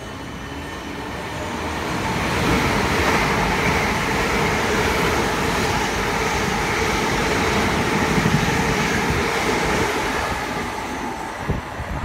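A passenger train running non-stop through the station at speed. The rumble of its wheels on the rails and the rush of air build up about two seconds in, stay loud for several seconds as the carriages go by, then fade.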